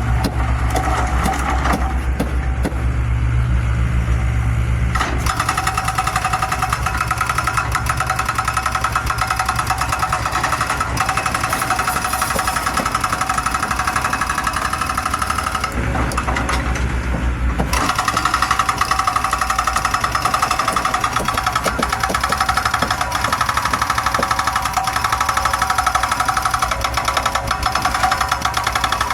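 Mini excavator's diesel engine running with a rapid, even pulsing beat. A steady higher whine joins about five seconds in, drops out for a couple of seconds past the middle, then comes back as the machine works.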